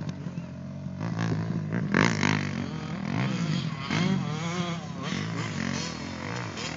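Motocross dirt bike engines revving up and down as they ride the track, with the pitch rising and falling and getting louder around two and four seconds in.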